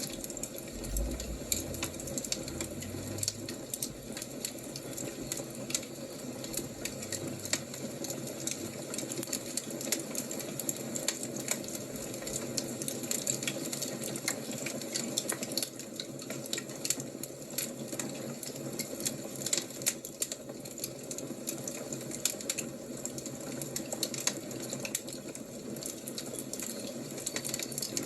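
Wood fire crackling steadily, with many small, quick pops and snaps over a soft hiss.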